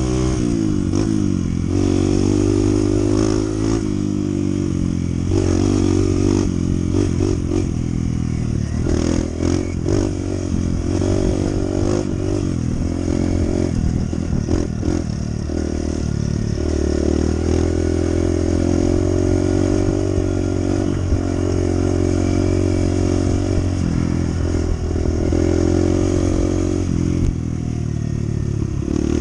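Honda CT125's single-cylinder engine running while being ridden, its pitch rising and falling with the throttle. A few short knocks come through around the middle.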